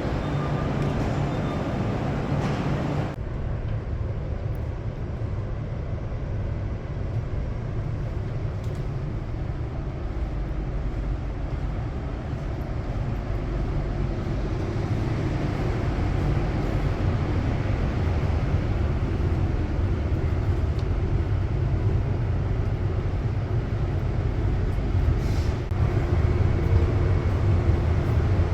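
Passenger train running with a steady low rumble and hum, changing abruptly about three seconds in.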